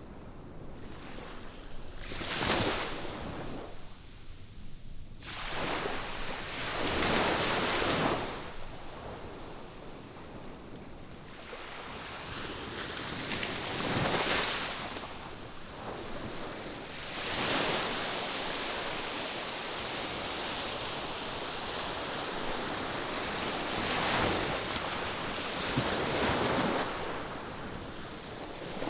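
Ocean waves breaking on the shore, heard from a distance. The surf noise rises and falls in about six swells over half a minute.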